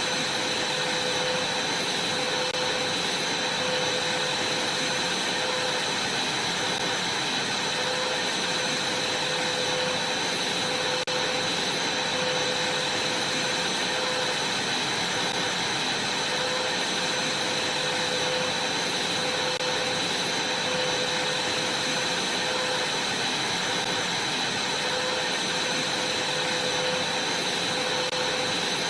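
Vacuum cleaner running steadily, its motor giving a constant high whine over a rushing hiss.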